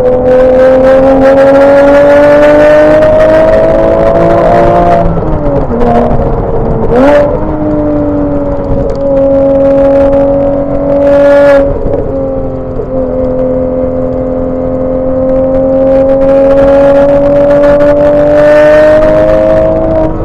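Porsche 987 Boxster's flat-six engine pulling under load, its note climbing slowly. The pitch falls at a gear change about five seconds in, with a brief sharp rise in revs just after. There is a smaller drop near thirteen seconds, and then the note climbs slowly again.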